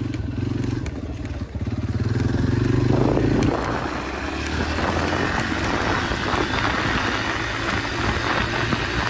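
Yamaha dirt bike engine running while riding a trail. It swells in revs about two to three seconds in, then carries on with a rougher, noisier rush mixed in.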